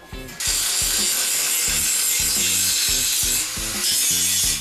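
Angle grinder grinding on a welded steel frame to clean up the welds: a steady hiss of abrasive disc on metal that starts about half a second in.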